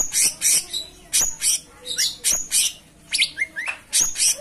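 Cucak cungkok (blue-winged leafbird) singing a fast, loud run of sharp chirps and rising whistled notes, several a second with short gaps between phrases.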